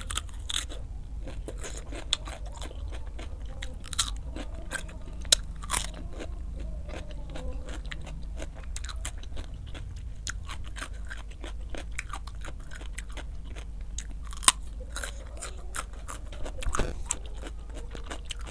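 Close-miked crunching and chewing of raw cucumber: crisp crunches throughout, with sharper ones near 4 to 6 seconds in and again around 14 and 17 seconds, over a low steady hum.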